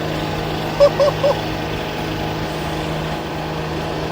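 An engine running steadily with a constant low drone. Three short, high pitched blips come in quick succession about a second in.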